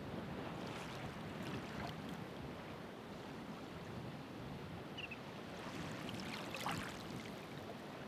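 Ocean waves washing onto the shore, a steady surf wash that swells into brighter foamy splashes about a second in and again, more strongly, around six to seven seconds in.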